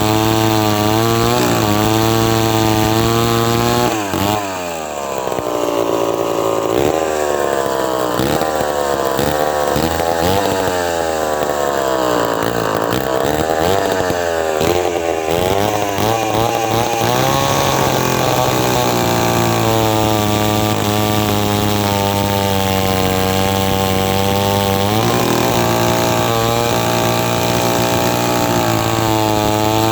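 Vintage David Bradley 5G-21 gear-drive two-stroke chainsaw running outdoors, its carburettor being leaned out on the high-speed needle. It runs at a steady speed, revs up and down from about four seconds in to about seventeen, then holds steady again, shifting speed once near twenty-five seconds.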